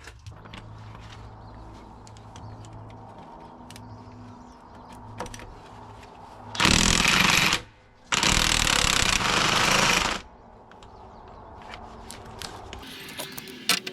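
Cordless impact wrench hammering in two bursts: one about a second long, then, after a short pause, one about two seconds long.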